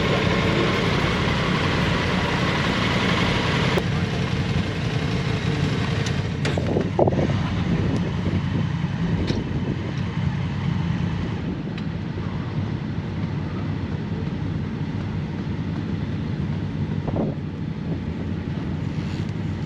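Motorcycle engine running steadily under a constant rush of wind and road noise, with a few brief knocks near the middle.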